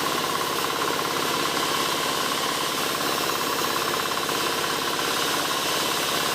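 Engine-driven wood saw running steadily with a fast, even pulsing, its pitch and loudness unchanging.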